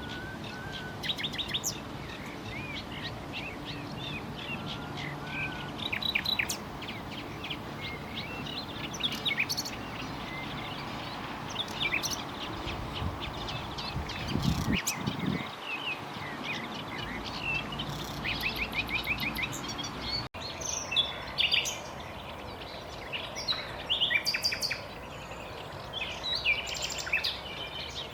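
Common nightingale singing: a run of varied phrases of rapid repeated notes, trills and whistles, separated by short pauses, over a steady background hiss. A brief low rumble about halfway through.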